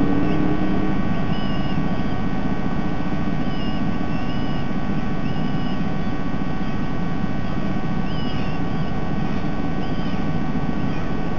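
Steady low rumble, like distant traffic or an aircraft, with a short high bird chirp repeating roughly once every second or so over it.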